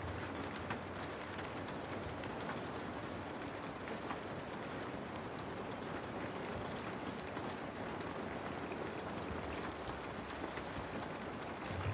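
Steady rain on a window: a dense, even hiss with scattered sharper taps of single drops.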